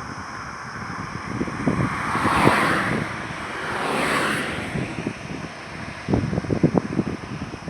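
Highway traffic: two vehicles pass one after another, their tyre and engine noise swelling and fading about two and a half and four seconds in. Wind buffets the microphone with low gusty thumps.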